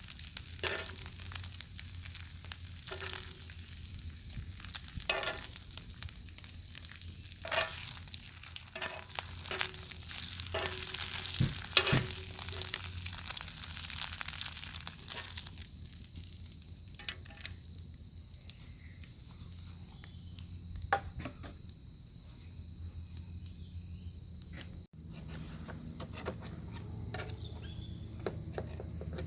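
Bacon sizzling in a pan over a crackling wood fire: a steady frying hiss with sharp pops and crackles. The sizzle and popping thin out about halfway through, and near the end the sound cuts abruptly to a quieter, different background.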